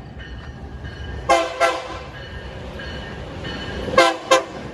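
Diesel locomotive horn sounding two short blasts, then two more about two and a half seconds later, over the steady rumble of light locomotives running without cars.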